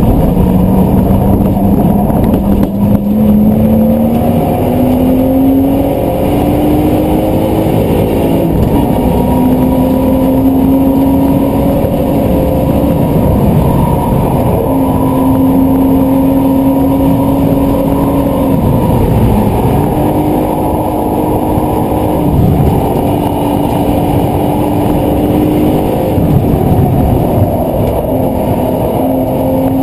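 BMW Z4 engine under hard acceleration on track, heard onboard over tyre and wind noise. The engine note climbs steadily for the first eight seconds or so, then drops suddenly at a gear change. After that it holds fairly steady, dipping briefly three more times as the driver shifts or lifts.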